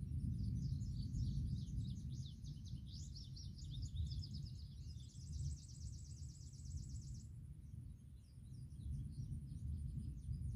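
Songbirds singing varied chirps, breaking into a fast, even trill from about five seconds in that stops abruptly a couple of seconds later, followed by fainter chirps. All of it sits over a steady low rumble.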